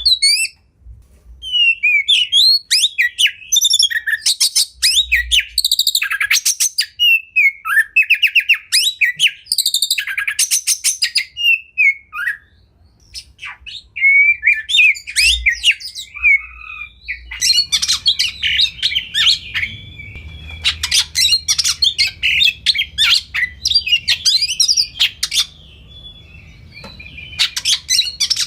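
Oriental magpie-robin (kacer) singing: varied whistled phrases of gliding notes, broken by fast rattling trills. From about two-thirds of the way in, the song turns dense and almost continuous.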